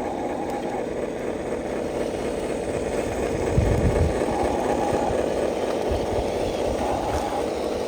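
Electric motor and gearbox of a remote-control construction model running steadily, with a low thump about three and a half seconds in.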